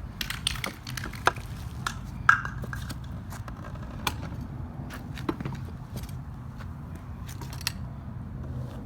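Scattered clicks, taps and light scrapes of objects being handled, over a low steady hum, with the sharpest knocks about one and two seconds in.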